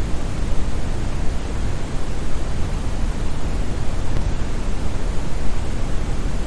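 Steady brown noise: an even, deep hiss strongest in the bass and fading toward the treble, with no changes or events.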